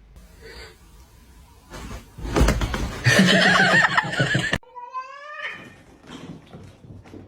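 A domestic cat meowing. A loud, noisy stretch in the middle cuts off suddenly and is followed by a short meow that rises in pitch.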